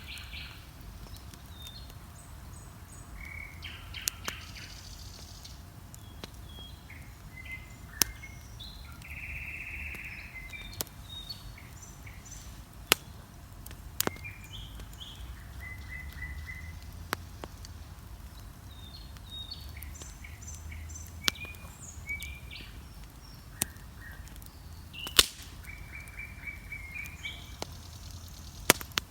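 Wood bonfire crackling, with sharp single pops every second or two, while songbirds chirp and sing in the dawn chorus.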